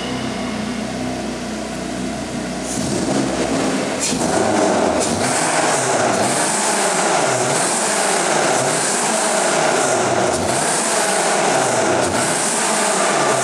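Renault Clio 16S rally car's 16-valve four-cylinder engine running as the car drives slowly inside a metal shed. It grows louder a few seconds in, then rises and falls about once a second.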